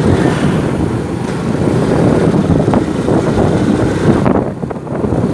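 Motorcycle engine running under way, mixed with wind rushing over the microphone; the sound briefly drops and thins a little over four seconds in before picking back up.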